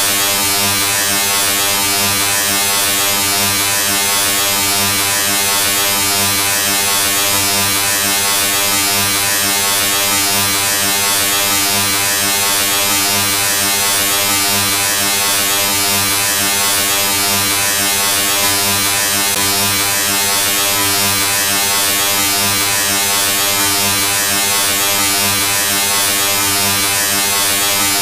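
Steady electric buzz, the looped Colorama sound effect: one unchanging low drone with many overtones and a hiss above, holding the same level without a break.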